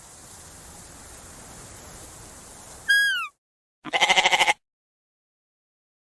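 A faint steady hiss, then about three seconds in a single short, clear whistled call that falls in pitch, followed a moment later by one short wavering sheep bleat. The sound cuts off abruptly to silence after the bleat.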